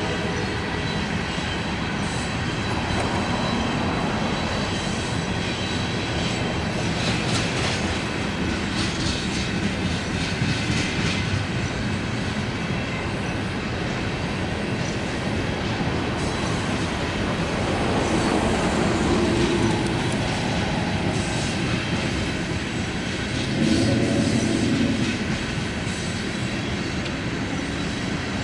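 Loaded coal train rolling past at steady speed, a continuous rumble of steel wheels on rail with repeated clacks and knocks from the cars. It swells briefly twice in the second half.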